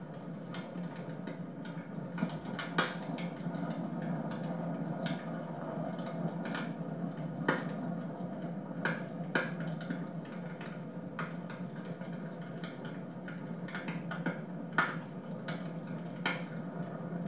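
Wood fire burning in a fireplace, crackling with irregular sharp pops over a steady low rush.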